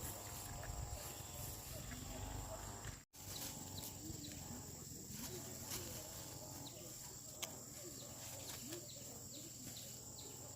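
Faint rural outdoor ambience: a steady high insect drone with scattered small animal chirps and a few light clicks. It cuts out for an instant about three seconds in.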